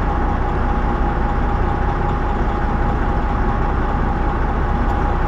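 Semi truck's diesel engine idling steadily, a constant low rumble with a thin steady whine over it.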